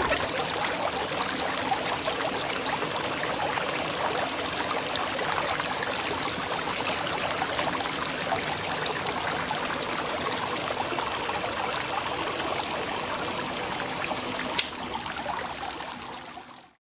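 Water pouring in a steady stream, with one sharp click near the end before the sound fades out.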